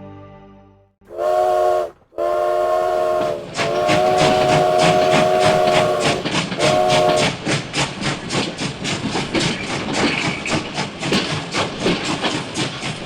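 Steam locomotive whistle sounding a chord, blown four times (short, short, a long blast, short), then the locomotive chuffing along at a steady pace of about four puffs a second.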